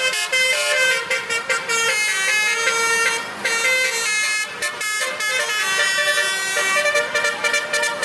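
A truck's basuri musical horn playing a melody, its notes changing pitch in steps, with a brief break about three seconds in.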